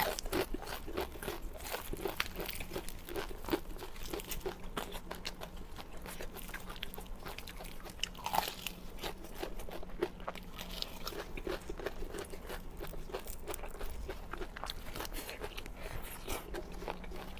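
Close-miked crunching bites and chewing of crispy fried chicken leg: a dense, continuous run of short crisp crackles.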